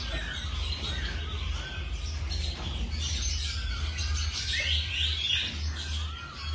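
Songbirds chirping and whistling, with short calls and quick gliding notes overlapping, over a steady low hum.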